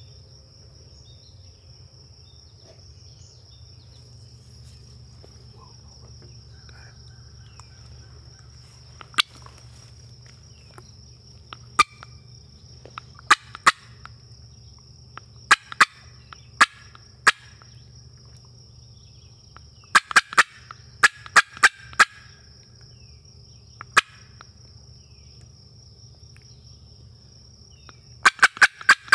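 Turkey calling in short, sharp, rattling series of notes that come several times, in tight clusters at about a third and two-thirds of the way through and again near the end. Under it run a steady high insect buzz and a low steady hum.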